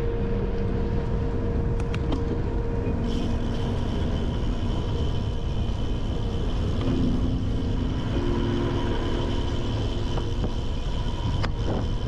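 Continuous low wind rumble and tyre noise picked up by a handlebar-mounted camera on a bicycle riding along a trail.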